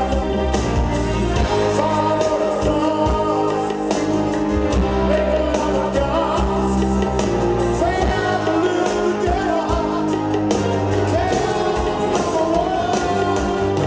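Live rock concert: a man singing lead over a full band, with sustained low bass notes and a regular drum beat.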